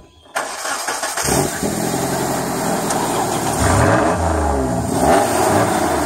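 Straight-piped car engine starting up: a loud burst, then the engine catches about a second in and runs. It is revved up and down twice in the second half.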